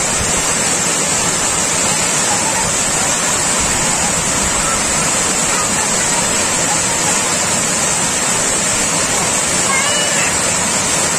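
Water pouring over an overflowing dam, a loud, steady rushing roar.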